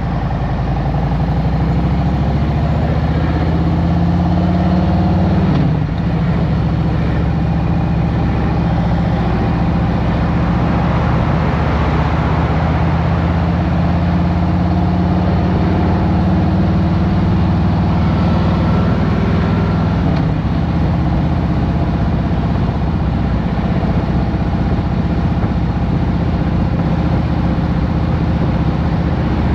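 2023 Harley-Davidson Road Glide Special's Milwaukee-Eight 114 V-twin running steadily, with a brief dip in the engine note about six seconds in, under wind noise.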